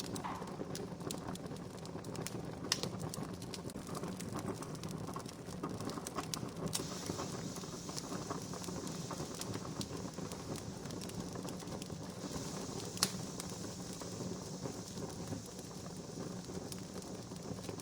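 Wood fire crackling: a steady bed of small snaps and clicks with two louder pops, one near the start and one about three-quarters through. A steady hiss joins about a third of the way in.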